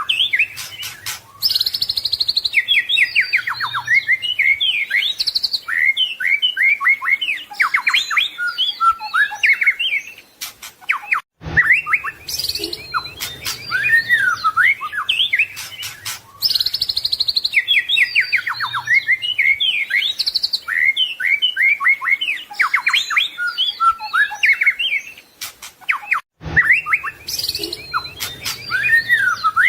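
White-rumped shama (murai batu) singing a loud, rapid, varied song of whistles, trills and chips, with full mimicked fills (isian). The song sequence repeats as a loop, broken by short gaps about 11 and 26 seconds in.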